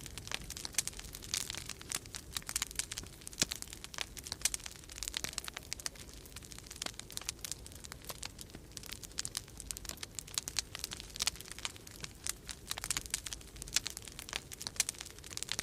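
Wood fire crackling in a fireplace, with dense, irregular snaps and pops, over a steady low rumble of storm wind.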